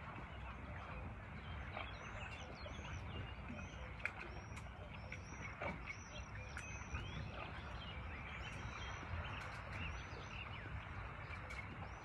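Small birds chirping: many short, high notes in quick series, over a steady low background rumble.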